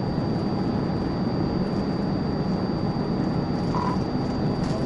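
Police patrol car driving at speed, with steady road and engine noise heard from inside the car and a faint steady high whine. A short beep sounds about four seconds in.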